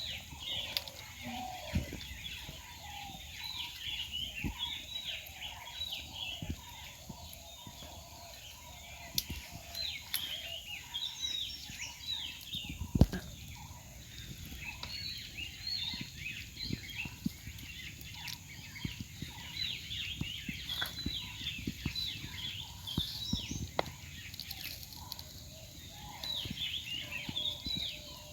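Many birds chirping continuously in short, high, overlapping calls, with scattered sharp knocks, the loudest about halfway through.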